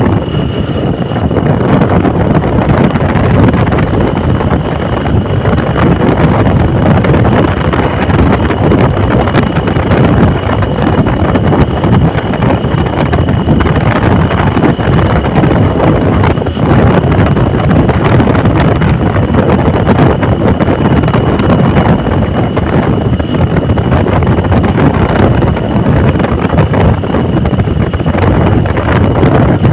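Wind buffeting the microphone over the noise of a moving vehicle, loud and unbroken, with a faint steady high whine throughout.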